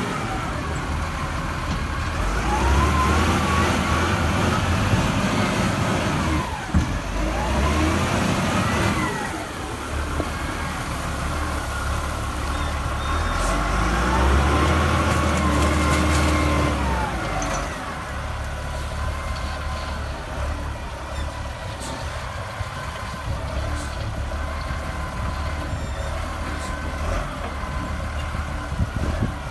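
Liugong 836 wheel loader's diesel engine working while loading coal, revving up and easing off about three times with a rising and falling whine, then running more steadily and a little quieter in the second half.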